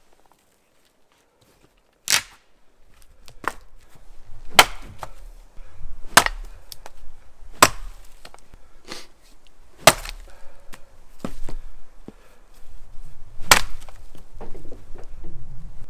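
Axe chopping wood: a string of sharp blows, about one every second and a half, starting about two seconds in, with softer knocks between them.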